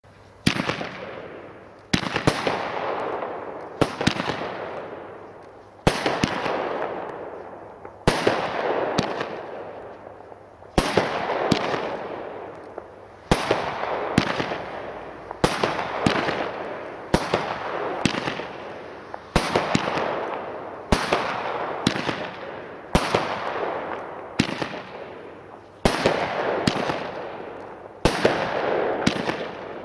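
36-shot consumer firework battery firing large-calibre mortar shots in a steady sequence: a sharp crack every one to two seconds, each trailing off in a fading rush of noise from the burst.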